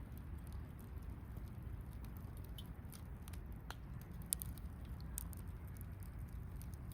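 Wood campfire crackling: scattered sharp pops and snaps, one louder pop about four seconds in, over a low steady rumble of the burning fire.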